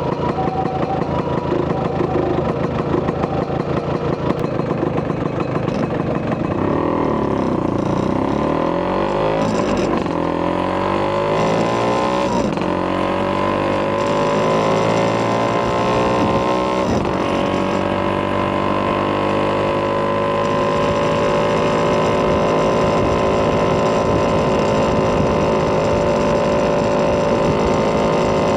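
Vespa PX200 FL2's single-cylinder two-stroke engine, bored to 210cc with a Polini kit and breathing through a Malossi expansion-chamber exhaust. It runs at low revs for about six seconds, then pulls away and revs up through three gear changes before settling into a steady cruise.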